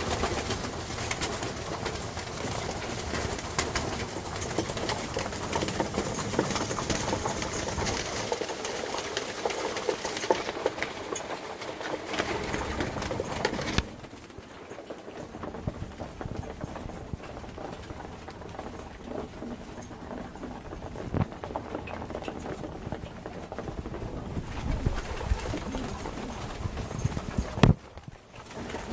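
Racing pigeons cooing in their loft. The sound is denser and louder for the first half and drops off suddenly about halfway; a single sharp knock comes near the end.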